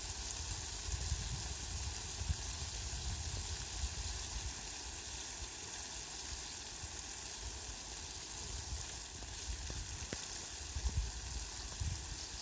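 Steady rain falling, an even hiss, with a low rumble that swells now and then.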